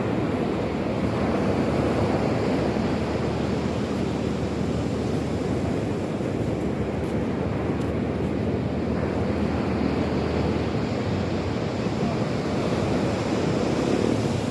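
Sea waves and surf washing in with a steady rush, with wind on the microphone.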